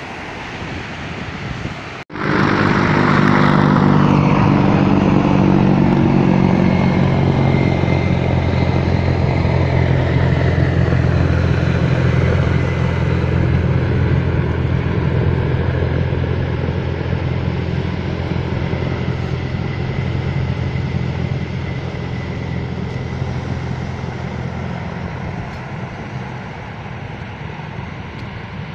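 A motor engine running steadily at a constant pitch. It starts abruptly about two seconds in and slowly grows quieter over the second half.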